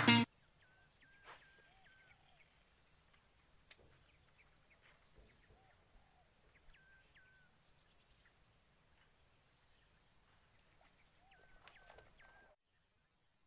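Faint open-air ambience with short animal calls, most likely birds, coming in small groups of two or three, each call dipping in pitch. A few soft clicks, slightly louder at the cast near the end, and then the sound cuts to silence.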